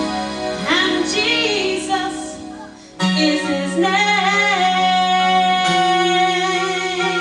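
Gospel vocal group singing with instrumental accompaniment, a woman's voice prominent. One phrase fades out about two and a half seconds in, and a new phrase of long held notes starts about three seconds in.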